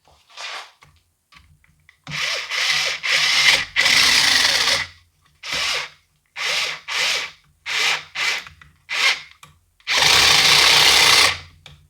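Cordless drill/driver run in bursts, several short trigger pulls and two longer runs of a second or more, driving in the mounting screws of a string trimmer's carburetor.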